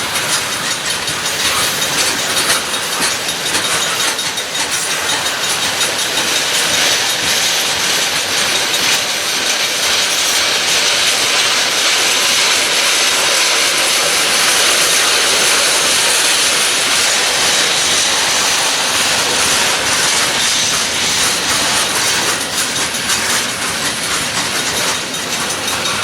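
Freight train cars rolling past with a steady hiss and rumble of wheels on rail, faint clicks of wheels over rail joints running through it.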